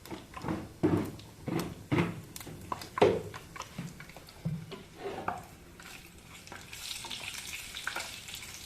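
Stirring whole cardamom and cloves frying in hot oil in a kadhai. The spoon knocks and scrapes against the pan about twice a second, and a sizzling hiss of frying comes up near the end.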